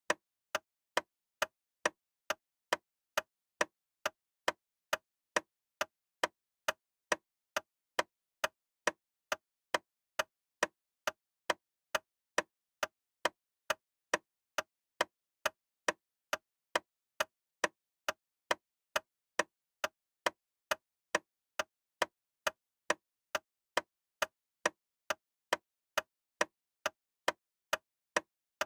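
Sharp, evenly spaced ticking, about two ticks a second, every tick the same, with dead silence between ticks.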